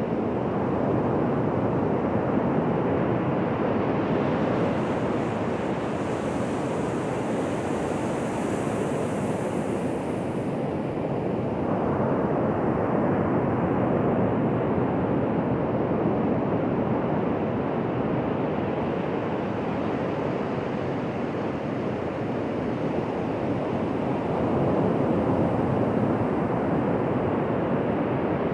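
Ocean surf breaking on a beach: a steady rush of waves that slowly swells and eases.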